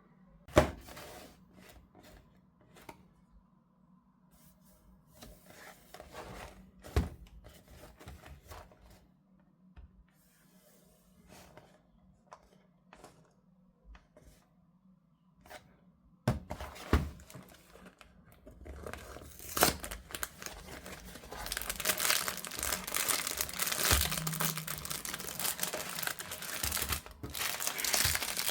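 Packaging being handled, torn open and crumpled by hand, with a few sharp knocks at first, then dense continuous crinkling through the second half.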